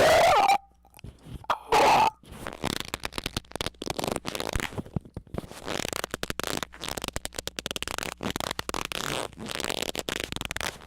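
Loud squeaking noises: a squeak that slides in pitch at the start, a second squeak about two seconds in, then a long stretch of rapid crackling, rubbing squeaks.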